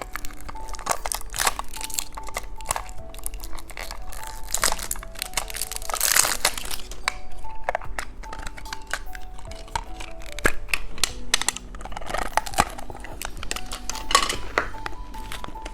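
Plastic candy packaging crinkling and crackling as it is handled, in irregular bursts, over background music with a simple plinking melody.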